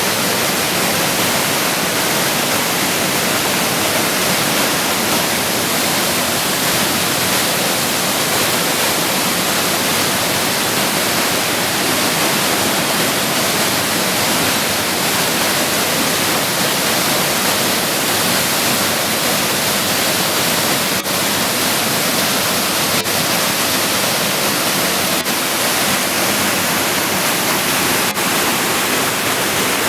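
Waterfall rushing, a loud, steady roar of falling water with no change in level.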